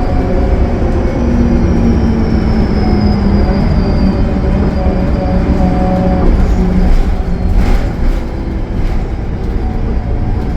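Cummins ISL9 turbo-diesel of a Gillig Low Floor transit bus under way at highway speed, heard from inside with steady engine drone and road noise. A high turbo whine slowly falls in pitch in the first few seconds, and near the end the sound briefly drops as the engine eases off.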